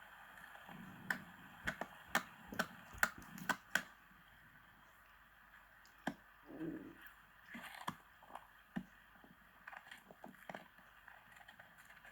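A run of sharp knocks and clicks, about two a second for a few seconds, then scattered softer knocks: objects being handled in a small room.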